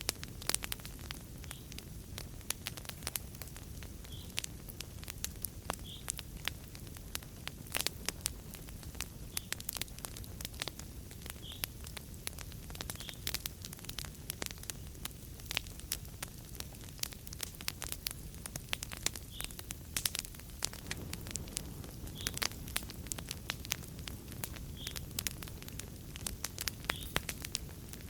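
Fireplace fire crackling: many sharp, irregular pops and snaps over a steady low rumble of flames.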